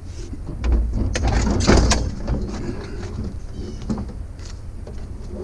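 Clattering and scraping of items being handled, with a heavy low rumble and knock loudest about a second and a half in, then lighter clicks and knocks.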